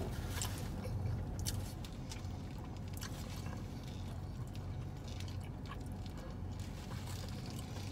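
Eating sounds: chewing, and a paper sandwich wrapper crinkling in a few short clicks and rustles, over a steady low hum inside the car.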